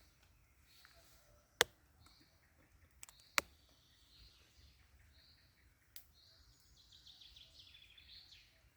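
Songbirds singing in phrases of quick warbled chirps. They are broken by a few sharp clicks or cracks, the two loudest about one and a half and three and a half seconds in.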